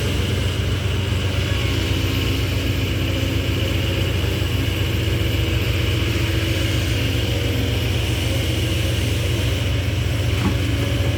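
Diesel engine of a dump truck idling steadily, with a deep, loud exhaust note.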